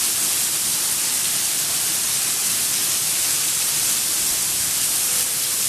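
Heavy thunderstorm downpour: a loud, steady, even hiss with no distinct separate impacts.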